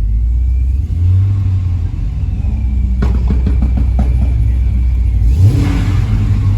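Car engine running with a loud, deep rumble. About three seconds in there is a run of short crackles, and near the end the pitch rises briefly under a burst of hiss.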